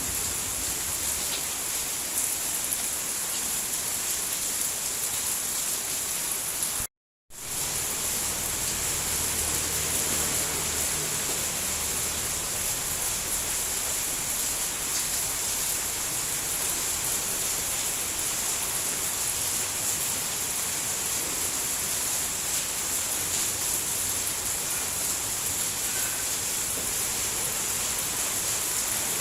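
Steady heavy rain falling, an even hiss with no distinct drops, that cuts out to silence for a fraction of a second about seven seconds in.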